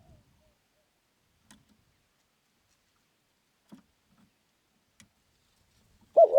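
A few faint clicks, then near the end a spotted dove starts its coo with two loud, short, low notes.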